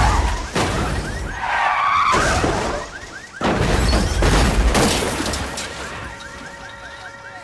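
Film sound effects of a car crash: heavy impacts and breaking glass, with a big hit about three and a half seconds in. A car alarm's repeating chirps sound throughout and carry on as the crash noise dies away near the end.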